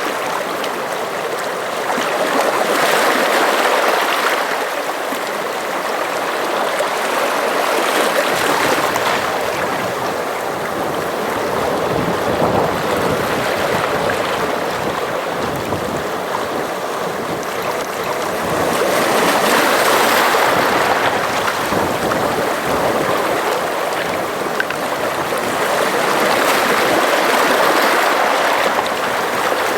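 Sea waves washing in and out against the shore: a continuous rushing wash that swells and ebbs every several seconds.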